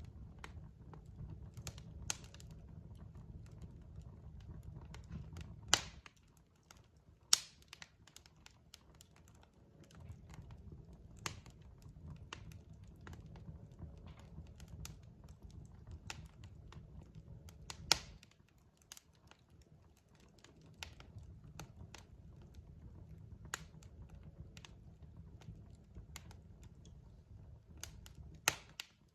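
Log fire crackling, with irregular sharp pops and snaps over a low rumble of flames. The rumble drops out twice for a few seconds and comes back, while the pops go on.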